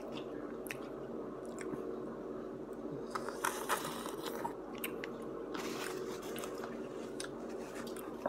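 Close-up chewing of a mouthful of french fries and burger, with crunches and wet mouth clicks, busiest in the middle, over a steady low hum.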